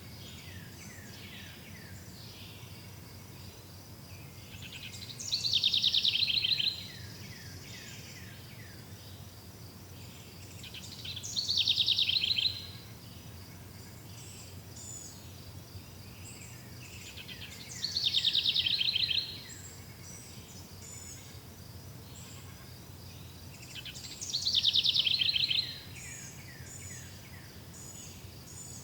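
A songbird repeats the same song phrase about every six seconds, four times. Each phrase is a quick burst of high notes that falls away in a trail of lower ones. Under it runs a faint, steady, high, insect-like chirring.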